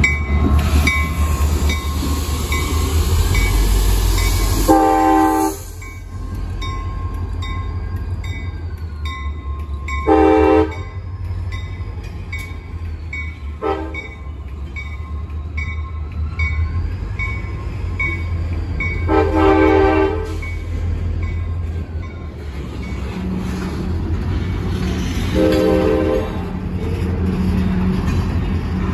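CSX train running past with a steady low rumble, its locomotive horn sounding five times: long, shorter, a brief toot, then two more long blasts.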